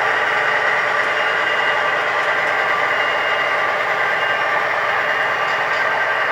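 HO scale model diesel locomotive running on the layout, its engine sound steady and unchanging.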